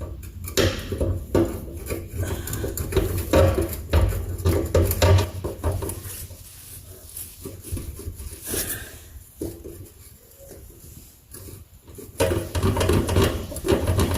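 Metal tools clinking and knocking: a wrench and socket being handled and fitted onto a rusty suspension bolt, in irregular sharp clicks and knocks. A louder, steadier sound comes in near the end.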